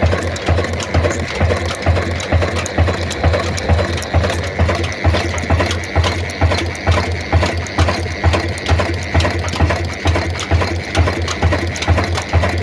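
Old diesel engine running steadily, with slow, regular low beats about two and a half a second and a light mechanical clatter over them.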